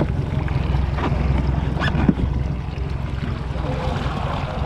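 Fishing boat under way: a steady low rumble with wind buffeting the microphone and water against the hull. A few sharp knocks come through, the loudest about two seconds in.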